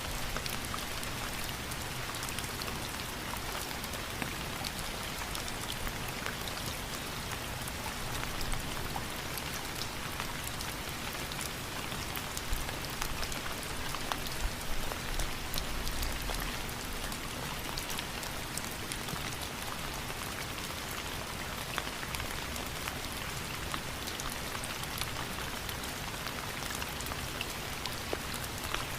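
Steady rain falling, a constant hiss of drops with many small individual drop ticks.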